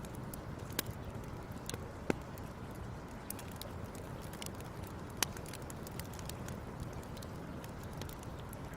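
Fire crackling: a steady low rumble of burning under scattered sharp pops and snaps, the loudest about one, two and five seconds in.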